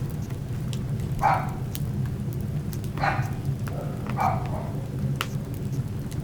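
Wood fire crackling, with scattered sharp pops over a steady low rumble. Three short, louder sounds of unclear source come about a second, three seconds and four seconds in.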